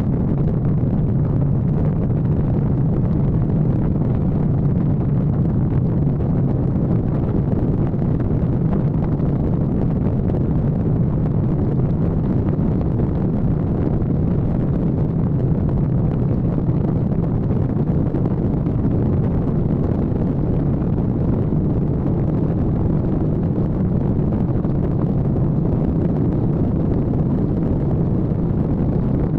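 Kawasaki ZX-14R inline-four sport motorcycle cruising at a steady speed. The engine drones evenly under wind rushing over the microphone.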